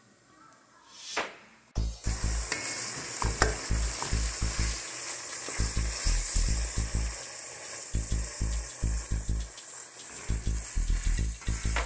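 Diced meat frying and sizzling in a pan while a wooden spoon stirs it; the sizzle starts suddenly about two seconds in and then runs steadily.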